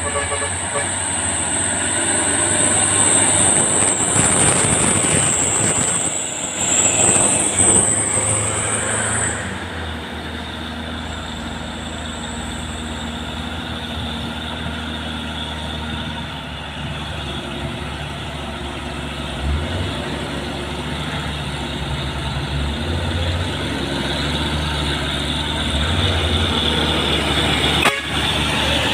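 Heavy diesel truck engine labouring under load up a steep climb, a steady low drone that shifts in pitch now and then. A high, thin whine runs over it for the first nine seconds or so.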